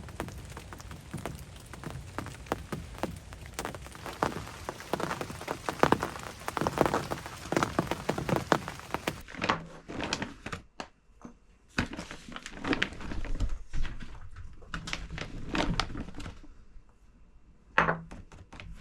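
Steady rain pattering on a hunting ground blind. About halfway through the sound changes abruptly to scattered separate knocks and thumps with quiet between them.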